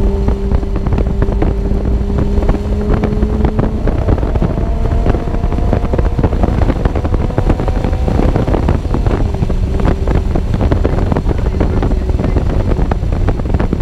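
Lotus Elise 111R's Toyota 2ZZ-GE 1.8-litre four-cylinder engine, with a Larini aftermarket exhaust, running hard at speed under heavy wind buffeting on an unshielded camera microphone. The engine note holds steady, then climbs slowly from about four seconds in and drops back lower at about eight seconds.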